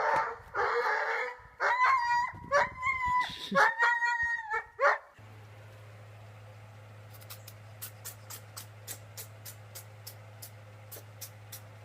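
A dog whining and yipping in short, repeated pitched cries for about five seconds. The sound then cuts to a quieter steady low hum with regular sharp clicks, about three a second.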